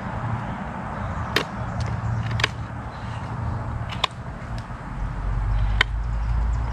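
Knife chopping into a block of wood: four sharp strikes about a second or more apart, over a low rumble.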